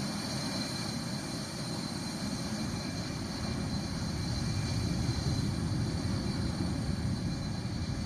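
B-1 bomber's four afterburning turbofan jet engines running: a steady rush of noise over a low rumble, with a thin high whine.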